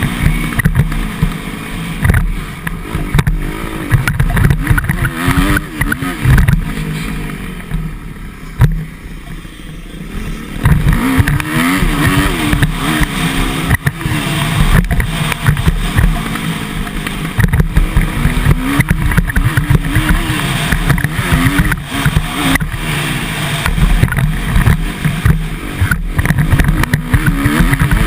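Motocross bike's engine revving up and down as it is ridden hard, with wind buffeting the helmet- or body-mounted camera's microphone. The engine drops back briefly about a third of the way in, then picks up again.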